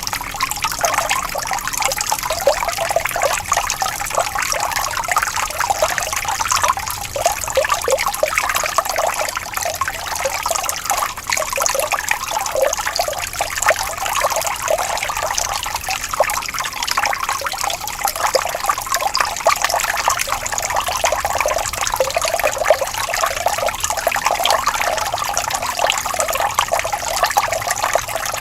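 Gently flowing water trickling steadily: an even rush made of many small, quick splashes.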